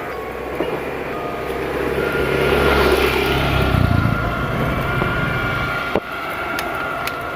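A vehicle passing by, its noise building to a peak about three seconds in and then easing off.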